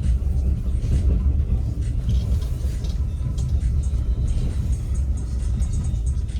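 Moving passenger train heard from inside the carriage: a steady low rumble of the running gear, with scattered small clicks and rattles.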